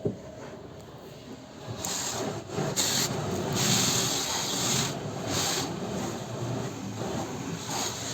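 Car being washed: repeated bursts of hissing, scrubbing noise starting about two seconds in, after a sharp click at the very start.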